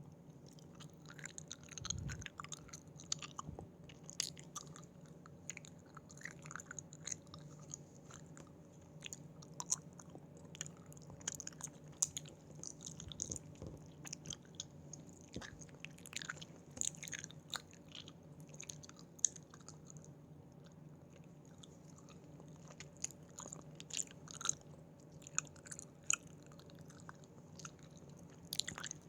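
Close-miked chewing of Haribo gummy candies: sticky, wet mouth sounds with frequent irregular clicks and smacks as the gummies are bitten and chewed.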